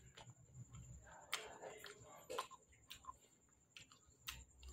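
Quiet mouth sounds of someone chewing fruit: irregular soft clicks and smacks, spaced about a second apart, over a faint steady high-pitched tone.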